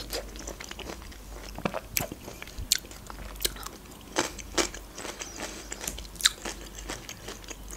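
Close-miked chewing of juicy red grapefruit, with irregular sharp wet mouth clicks.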